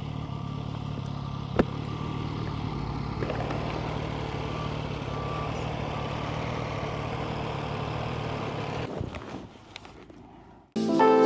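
MV Agusta Brutale 675's three-cylinder engine idling steadily, with one sharp click about a second and a half in. The engine sound dies away shortly before the end.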